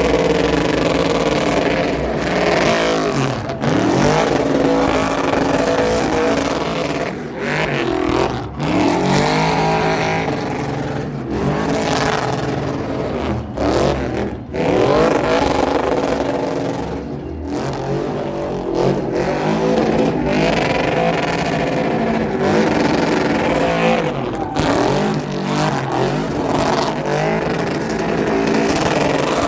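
Car engines revving hard again and again, the pitch sweeping up and falling back, with a few brief sudden drops in the sound.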